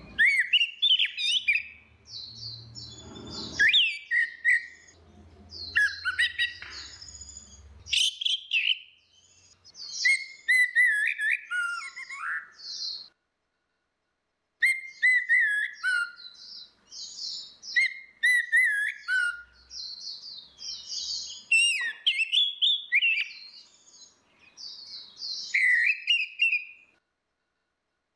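Orange-headed thrush singing: rapid, varied whistled phrases with sharp high notes, delivered in bursts with short pauses, breaking off into dead silence twice, about halfway through and near the end.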